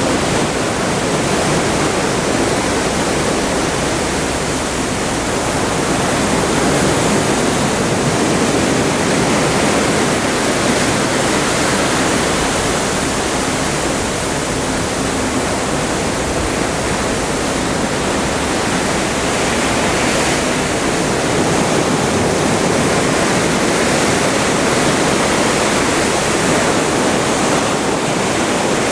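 Atlantic seawater rushing past the hull of a moving cruise ship: a steady, dense rush of water.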